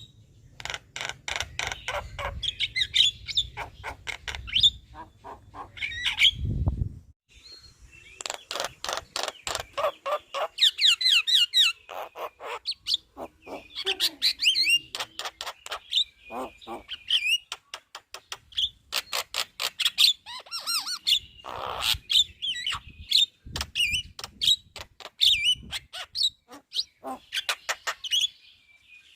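Javan myna chattering song: fast runs of harsh clicking notes mixed with short whistled phrases, broken by brief pauses. A low hum sits under the song for the first several seconds.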